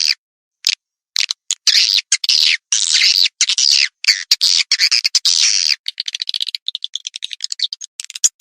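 Swiftlet lure call: high-pitched, buzzy swiftlet chirps in quick bursts, used to draw swiftlets into a nesting house. A pause of about a second follows just after the start, and near the end the chirps give way to a rapid run of dry clicking twitters for about two seconds.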